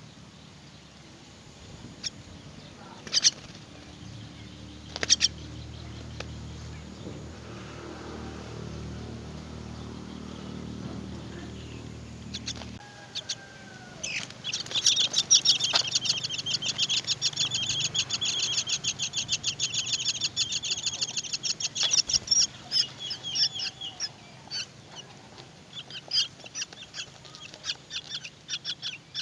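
Myna nestlings begging: a fast, rapidly pulsed high chatter starting about halfway through and lasting around ten seconds, then breaking into scattered chirps. Before it, a low steady hum with a few sharp clicks.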